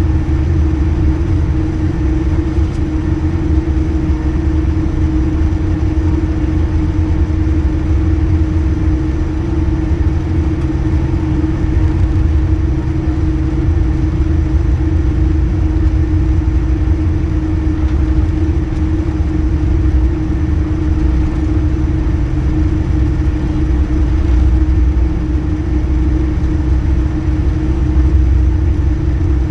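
Airliner engines heard from inside the passenger cabin: a steady low rumble with a constant hum, no rise or fall in level.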